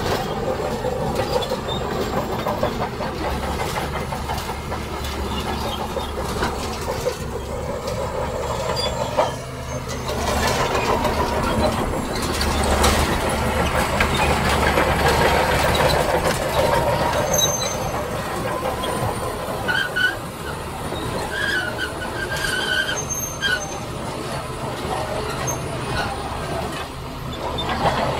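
Heavy diesel earthmoving machinery working, its engine running steadily under a dense clatter, with short high metallic squeals in the second half.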